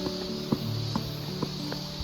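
Background music of plucked acoustic guitar notes, each struck sharply and left to ring, over a steady high hiss.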